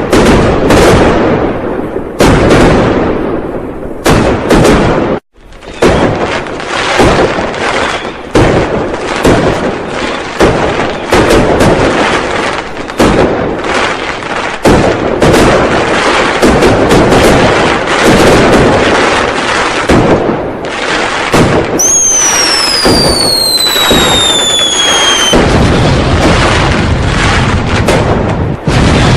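Dense New Year firecrackers and fireworks going off in rapid, overlapping bangs, which stop briefly about five seconds in. About 22 seconds in, a whistling firework gives a falling whistle lasting some three seconds over the bangs.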